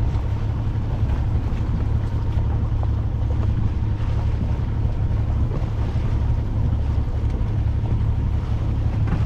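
Steady low rumble on board a yacht under way, with wind on the microphone.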